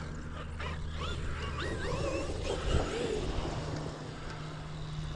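Large RC monster truck's electric motor whining under throttle, its pitch rising and falling in several quick sweeps in the first three seconds, over a steady low hum.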